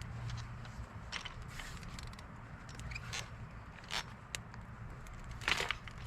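Scattered small clicks, scrapes and rustles of objects being handled, the loudest about five and a half seconds in, over a low steady hum.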